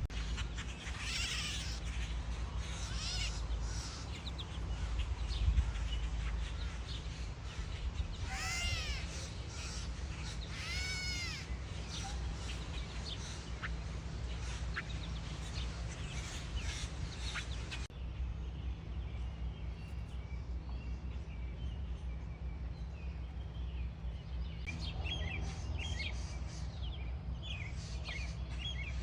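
Gray catbird giving its cat-like mewing call, two arching mews about two seconds apart, among scattered chirps of other birds. A steady low hum runs underneath.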